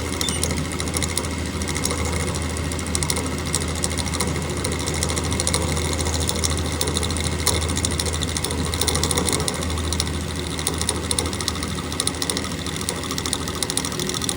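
Milling setup running steadily, its cutting bit chattering with a fast, even clatter as it takes a pass into the metal lug of a chainsaw muffler. The bit is one made for a hand tool and is not very stiff.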